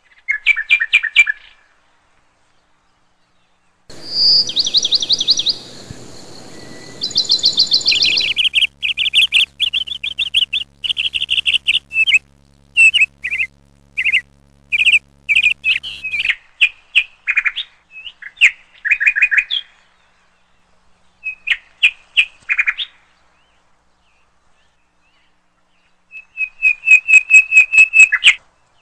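Bird chirping in quick runs of high chirps, broken by pauses, with a whistle-like stretch of held high notes a few seconds in.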